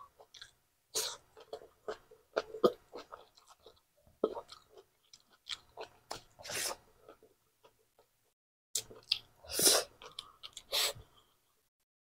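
Close-miked chewing and wet mouth smacking of a mouthful of rice and pork steak with onions, with many small clicks and two louder breathy bursts in the second half. The sound cuts off abruptly about a second before the end.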